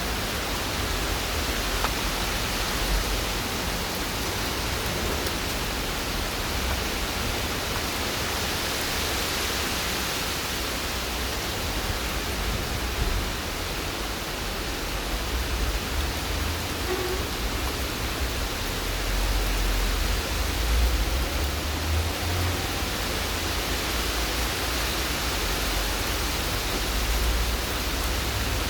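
Steady rain falling: an even, constant hiss, with an uneven low rumble underneath.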